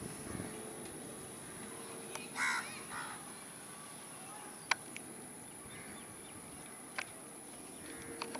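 A crow cawing, two short calls about two and a half to three seconds in, over a steady background hiss, with a few sharp clicks later on.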